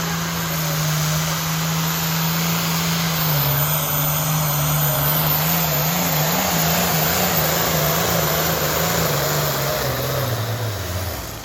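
Heavy diesel engine running at high revs under full load on a pull. Its pitch wavers in the middle, then falls away about ten seconds in as it lets off.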